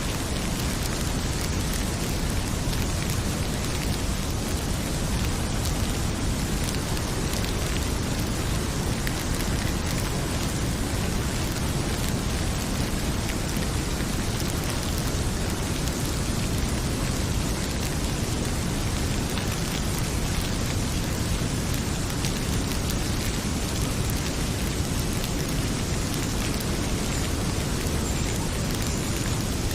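Heavy rain pouring steadily, a dense even hiss with no pause or change, mixed with the crackle of a wood fire in a fireplace.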